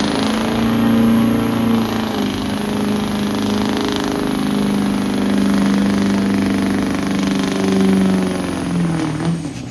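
A truck's engine run at high, fairly steady revs for about nine seconds, with a thin high whine over it, then backing off near the end.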